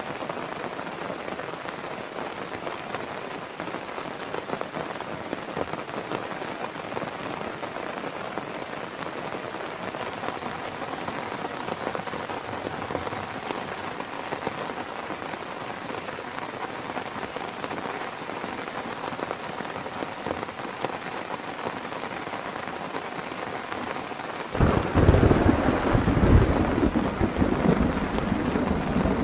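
Heavy rain falling steadily, then a loud, low rumble of thunder breaks in near the end and keeps rolling.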